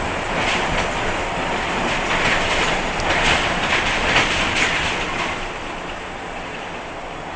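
Scania L94-UB city bus running, with a steady noise and repeated clattering rattles that ease off and grow a little quieter after about five seconds.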